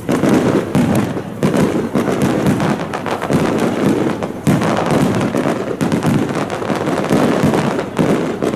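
Aerial fireworks shells bursting one after another in a dense barrage, many bangs in quick succession with no break.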